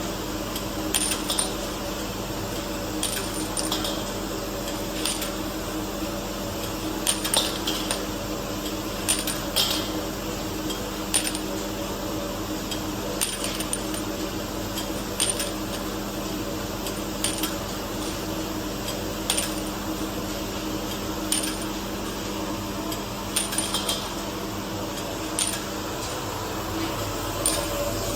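Twist-type bottle washing machine running with a steady hum, with glass vials clinking against metal about every two seconds as the machine cycles.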